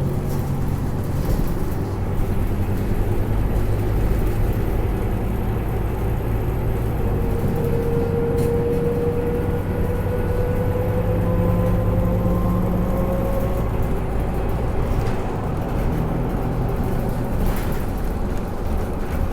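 Scania K310UA articulated bus's diesel engine running under way, heard from inside the cabin over a steady road noise. Midway a whine rises slowly in pitch for several seconds.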